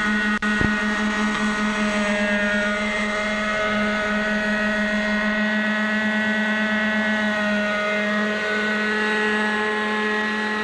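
Glow engine of a radio-controlled model helicopter with a UH-1 Iroquois scale body, running steadily in flight with a high engine tone whose pitch drifts slightly up and down. There is a brief click and dropout just under a second in.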